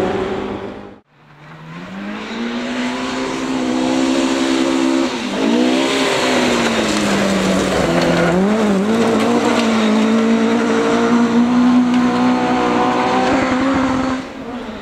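Rally car engine at high revs on a stage: after a short break about a second in, the engine note rises, wavers and dips briefly, as at a gear change or a lift off the throttle, then holds a steady high pitch before fading near the end.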